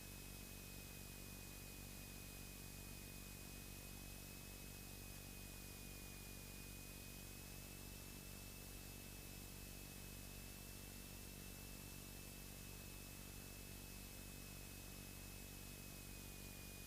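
Faint steady hiss with a thin, high, slightly wavering whine and a low hum underneath: the noise floor of an aircraft intercom or radio audio feed between transmissions.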